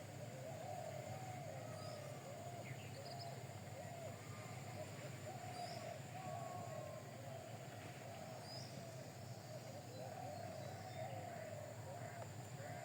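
Birds calling: a continuous run of short, low, wavering calls, with a few faint high chirps now and then over a steady low hum.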